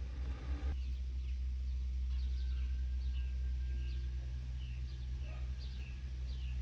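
Barn swallows chirping: a run of short, high chirps that fall in pitch, several a second, over a steady low hum.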